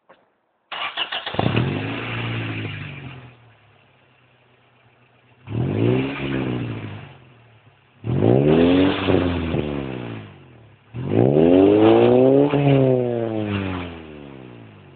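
Acura Integra engine heard through an HP Performance aftermarket muffler on an otherwise stock exhaust. It starts up about a second in and flares, settles to idle, then is revved three times, dropping back to idle after each. The last rev is the longest and highest.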